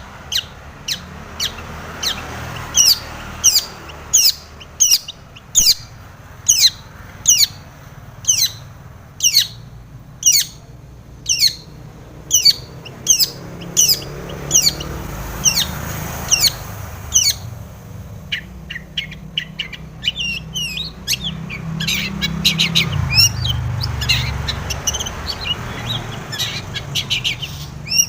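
Long-tailed shrike (cendet) singing: a long series of sharp, downward-sliding notes about twice a second, switching about two-thirds of the way through to a quicker run of varied chirps. A faint low rumble runs underneath.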